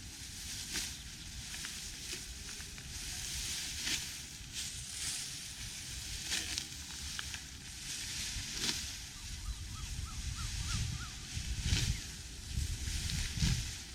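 Hand sickles cutting and swishing through rice stalks, a rustling crunch roughly once a second at an uneven pace. A low rumble of wind on the microphone swells in the last few seconds.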